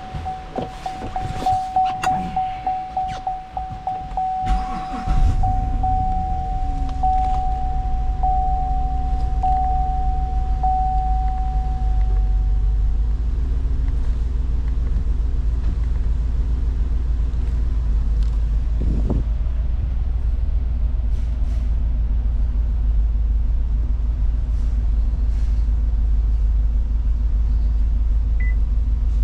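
2019 Cadillac Escalade ESV's 6.2L V8 cranking for a few seconds, catching about five seconds in, then idling with a steady low rumble. A repeating dashboard warning chime beeps over the cranking and the start of the idle, then stops.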